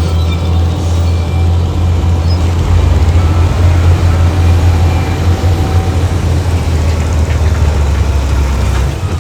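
Heavy diesel engine of earthmoving machinery running steadily under load, a loud low drone.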